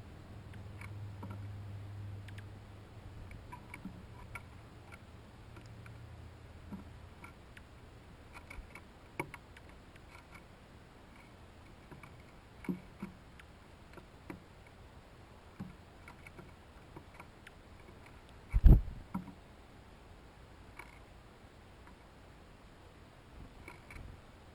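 Small scattered clicks and ticks of birds and chipmunks busy at a hanging seed feeder, with one loud thump about three-quarters of the way through. A low hum fades out over the first few seconds.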